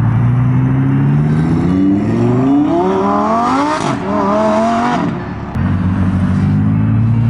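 Supercar engine accelerating away: a steady engine note climbs in pitch from about two seconds in, breaks briefly at a shift and climbs again. It drops back to a lower steady note about five and a half seconds in, then starts to rise again near the end.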